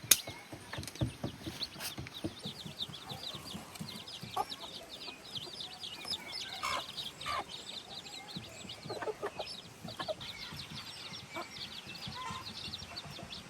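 Farmyard chickens: a continuous chorus of high chick peeps with hens clucking now and then, and one sharp click right at the start.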